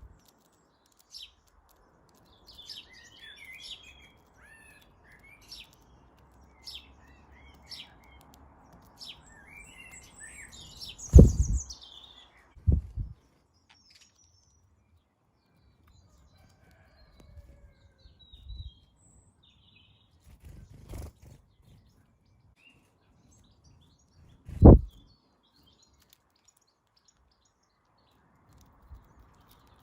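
Garden birds chirping at a feeder: many short chirps over the first twelve seconds or so, then only a few. Loud, short low thumps come three times, about eleven and thirteen seconds in and again near twenty-five seconds.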